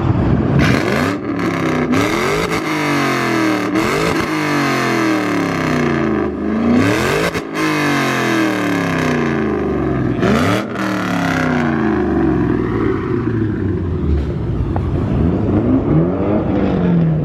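A car engine is revved hard again and again, loud, each rev climbing quickly and then falling back. After about twelve seconds it settles to a lower, steadier running note, with one more blip near the end.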